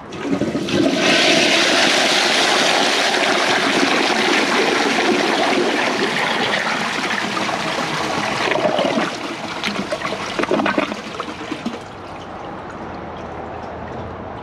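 A 1999 Western Pottery toilet flushing from a high tank with its siphon jet plugged. A loud rush of water with a swirling bowl runs for about nine seconds, a few gurgles follow near ten seconds, and after about twelve seconds it settles to a quieter steady flow. With the siphon jet blocked, the bowl overflows.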